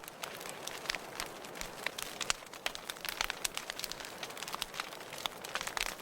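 Wood fire burning in a fireplace, crackling with frequent sharp pops at irregular intervals over a steady hiss of the flames.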